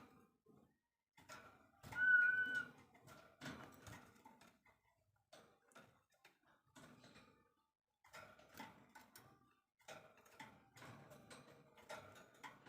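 Bird sounds: faint scattered clicks and short chips, with one clear whistled note, under a second long, about two seconds in.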